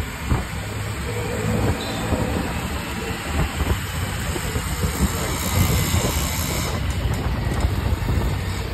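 Porsche 911 Turbo S twin-turbo flat-six running at low revs, a steady deep rumble with a hiss over it.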